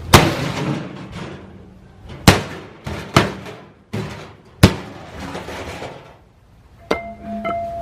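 A series of six sharp crashing bangs, about a second apart, each dying away quickly, with a brief steady tone near the end.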